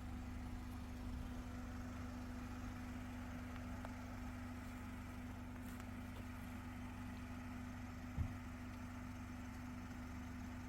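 Car engine idling steadily with a constant low hum, the car held in place while it is being levelled for sleeping in. A single short low knock about eight seconds in.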